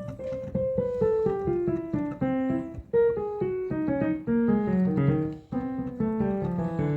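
Yamaha Arius YDP-142 digital piano played note by note in three downward runs while the keys are tested, the key action knocking at each press. Several keys on it are loose and won't press down.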